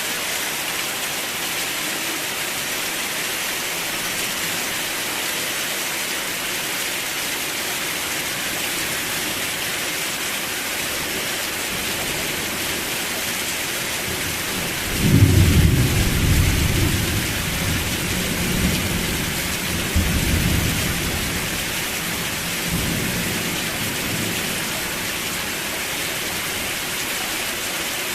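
Steady rain hissing, with a roll of thunder about halfway through: a sudden low rumble that swells again a few seconds later, then fades out.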